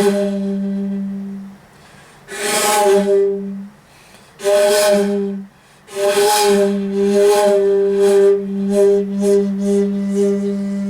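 Shakuhachi playing slow, low sustained notes, each attacked with a strong rush of breath noise. Three shorter phrases are separated by brief breaths, then a longer note is held from about six seconds in.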